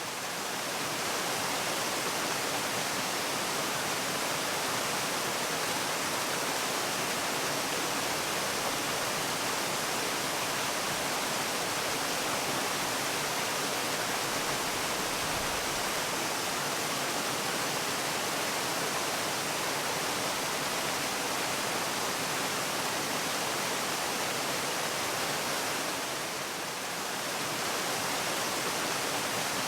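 Steady rushing of falling water, a waterfall's even hiss with most of its energy in the upper range. It eases off slightly about a second in and again a few seconds before the end.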